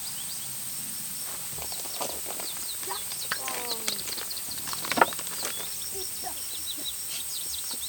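Small birds chirping over and over, with a falling call about three and a half seconds in and scattered sharp cracks, the loudest about five seconds in.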